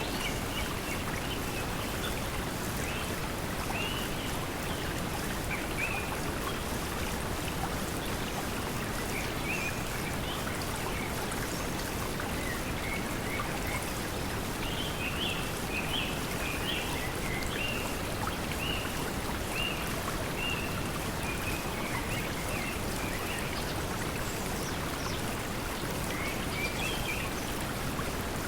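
Steady pink noise blended with flowing stream water, with birds chirping in short scattered calls over it.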